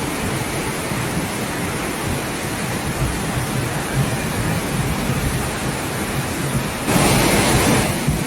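A steady rush of water that swells louder for about a second near the end.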